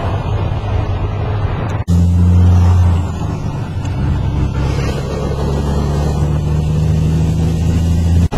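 Roadside traffic rumble. About two seconds in, it cuts abruptly to a steady engine drone, loudest for the first second and then holding at one pitch, which cuts off again near the end.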